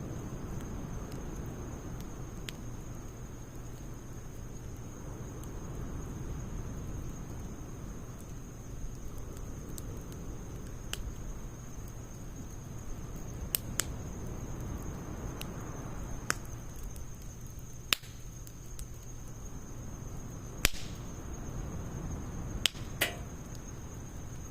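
Campfire of firewood logs and pine needles burning: a low steady rush from the flames with scattered sharp crackles and pops, more of them in the second half, the loudest near the end.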